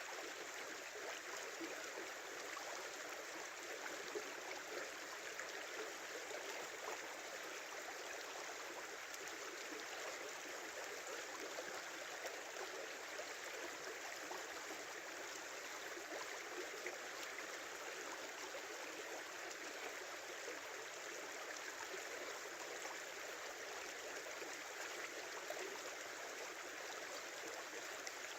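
Small river flowing in a steady, even babble of running water.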